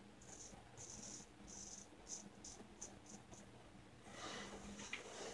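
A shavette razor with a Gillette Wilkinson Sword blade scraping through stubble in short strokes, about eight of them, getting shorter and quicker. A soft hiss rises from about four seconds in.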